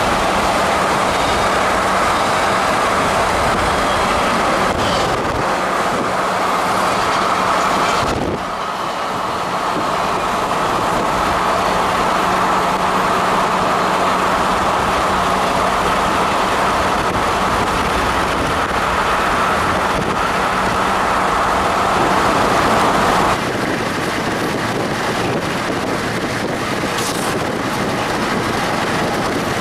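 Freight trains rolling by, double-stack container cars and then loaded coal cars, a steady rumble of rolling railcars, at first heard from a moving car with road and wind noise. The sound changes abruptly twice.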